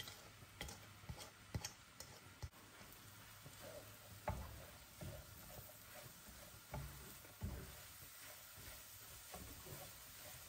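Finely chopped broccoli sizzling faintly in butter and olive oil in a skillet. A few sharp clicks come in the first couple of seconds as the last of it is scraped out of a bowl with a spatula, then a silicone spatula stirs and scrapes it around the pan.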